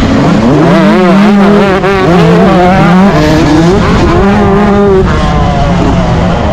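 Yamaha YZ125 two-stroke motocross engine revving hard under racing throttle, its pitch rising and falling over and over as the throttle opens and shuts and gears change, with short steady stretches between.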